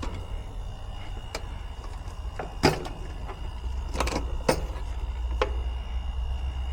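About five short, sharp clicks and knocks of hand tools and metal parts being handled, the loudest about two and a half seconds in, over a steady low rumble.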